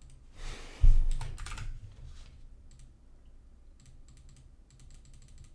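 Computer keyboard keys clicking in scattered strokes. A low thump about a second in is the loudest sound.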